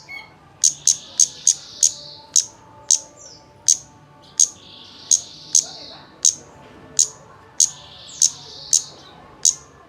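Kemade birdsong used as a lure to set a bird singing: loud, sharp high chips repeated about twice a second at uneven spacing, over a continuous buzzy trill that comes and goes.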